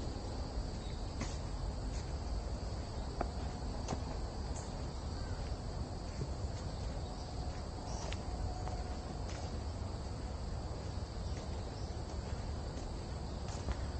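Insects singing in a steady, high-pitched chorus in a summer forest, with a low rumble of noise underneath and a few light clicks of footsteps on the path.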